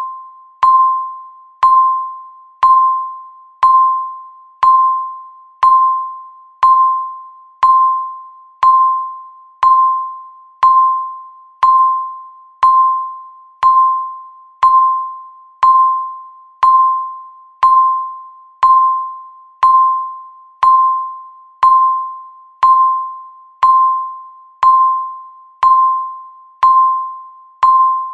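Countdown timer's tick sound effect, one tick each second, steady and even. Each tick is a sharp click with a bell-like ring that dies away within about half a second.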